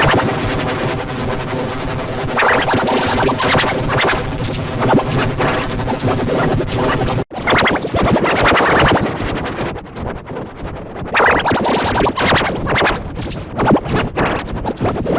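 Loud, heavily distorted, effect-processed cartoon soundtrack with a scratchy, electronic music-like quality. It cuts out for an instant about seven seconds in.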